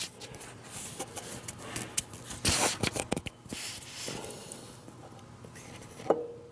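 Cast-iron lathe cross slide being worked onto the carriage's dovetail ways: metal scraping with a run of small knocks and clicks, quieting after about four seconds.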